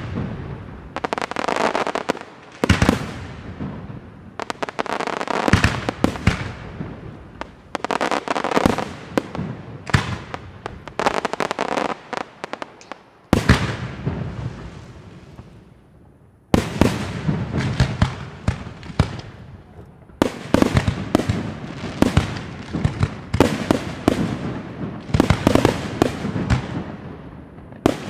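Fireworks display: aerial shells bursting in quick succession, each sharp bang trailing off in a spray of crackling pops. About halfway through, a lull of a few seconds lets the last burst die away before the barrage resumes.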